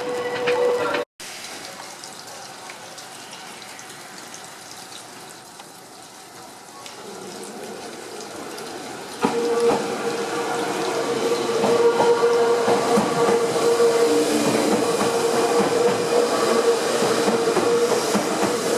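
Meitetsu electric train running at the platform: quieter at first, then from about halfway the sound steps up with a steady motor whine, clicks from the wheels and track, and growing hiss.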